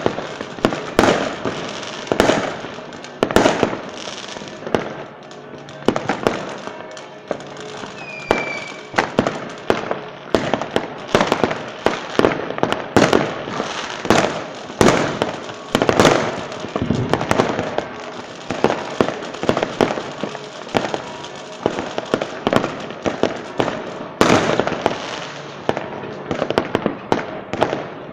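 Fireworks display: a rapid, continuous string of loud bangs and crackling bursts, a few each second, with a brief falling whistle about eight seconds in.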